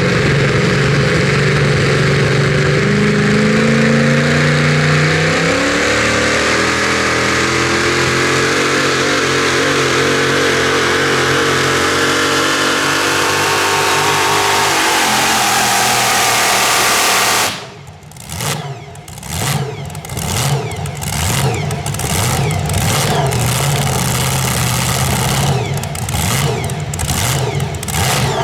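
Super modified 4WD pulling truck engine running hard at high revs, its pitch climbing over the first few seconds, holding, then sagging. It cuts off suddenly about two-thirds of the way in and is followed by a string of short throttle blips.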